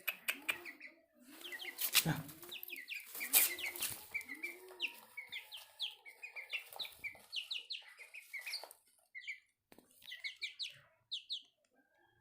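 Aseel hen clucking low and repeatedly while her chicks peep in rapid high chirps; the clucks stop about five seconds in and the chick peeps go on, growing sparse near the end.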